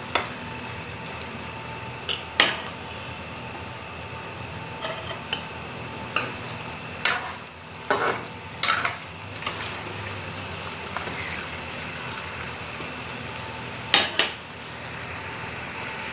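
Raw chicken pieces and potatoes sizzling in hot oil in a wok while a metal spoon stirs them, knocking and scraping against the pan about a dozen times, most loudly around seven to nine seconds in and again near the end.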